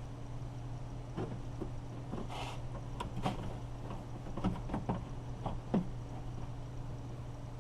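Irregular light clicks and knocks of car door parts being handled and fitted back together, with a short rustle among them, over a steady low hum.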